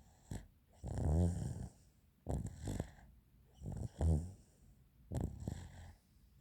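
Snoring during sleep: about four noisy breaths roughly every one and a half seconds, some with a low rattling vibration. It is the abnormal breathing sound that gave the recording its title.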